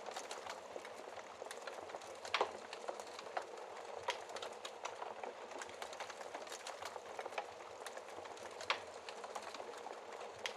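Wood fire crackling in a fireplace: a steady low hiss of flames with irregular sharp pops and snaps, a couple of louder pops about two and a half seconds in and near the end.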